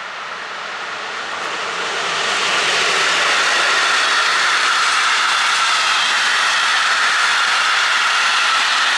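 Passenger train of blue-and-white České dráhy coaches passing through: the rushing noise of wheels on rails swells over the first two or three seconds, then holds steady and loud.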